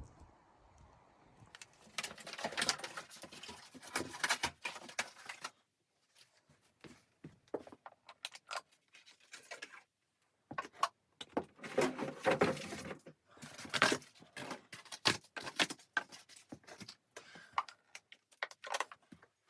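Crisp clicking and rustling noises in irregular clusters, with brief silent gaps between them; the densest runs come a couple of seconds in and again around the middle.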